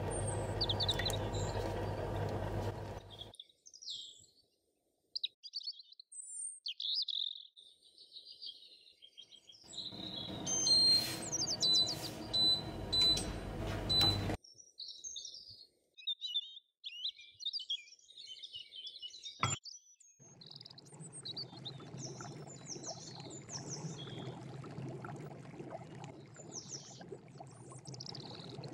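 Small birds chirping, scattered short calls throughout. For the first few seconds water pours into a mesh sieve of tamarind pulp, and in the middle a few short high beeps sound over a steady noise.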